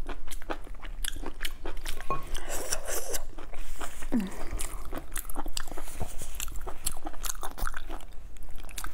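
Close-miked eating sounds of a stuffed blood sausage: wet chewing and lip smacks with many short clicks, mixed with the sausage being torn apart by gloved hands.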